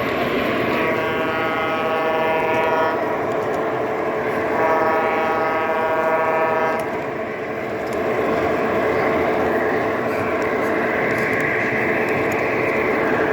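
A sound-equipped model locomotive gives two long signal blasts, each held about two seconds with a short gap between them, over the steady rumble of model trains running on track.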